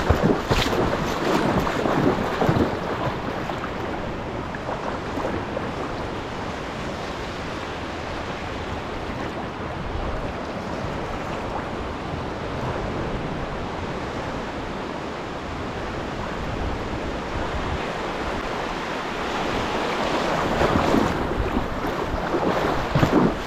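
Ocean surf washing in with wind buffeting the microphone: a steady rush of noise that swells in the first couple of seconds and again near the end.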